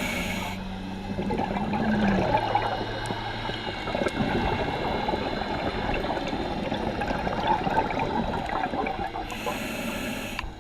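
Scuba diver breathing through a regulator underwater: a short hissing inhale at the start and another near the end, with a long stretch of bubbling exhaust in between.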